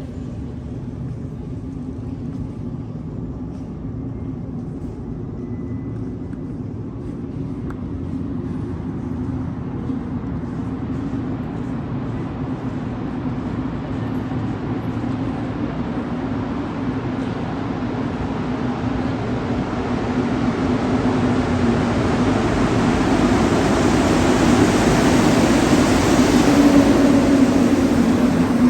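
Montreal Metro rubber-tyred train running, with a steady low hum under a rushing noise that grows steadily louder, loudest near the end.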